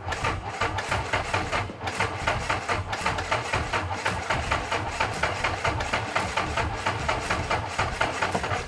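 Fuel-injected piston aircraft engine turned over by its electric starter, cranking in an even rhythm of several pulses a second without catching. It does not fire, which the owner suspects is spark timing on the magnetos.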